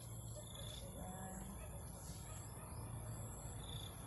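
Faint outdoor ambience: a steady low hum with a few faint, short, distant bird calls.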